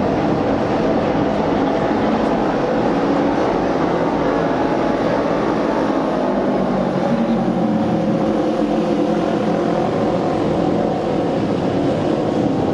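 A pack of auto race motorcycles running flat out around the oval track, several engines overlapping in a steady, unbroken drone.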